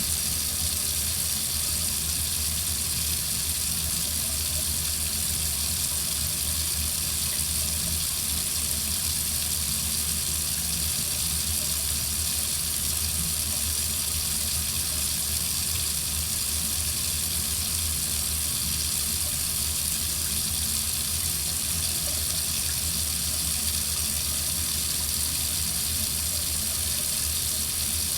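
Water running steadily from a faucet into a sink, an even hissing splash with no change.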